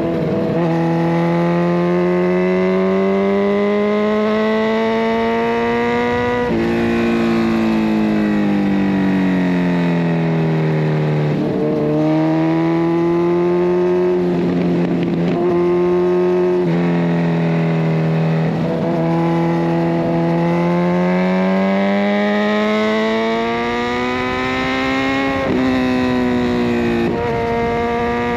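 Kawasaki Ninja 1000SX inline-four running through a decatted Scorpion Red Power exhaust while ridden, its pitch climbing under acceleration and sinking as it slows. The pitch drops suddenly three times, at the gear changes.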